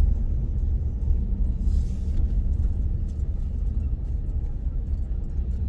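Steady low rumble of a moving vehicle, engine and road noise heard from inside while riding.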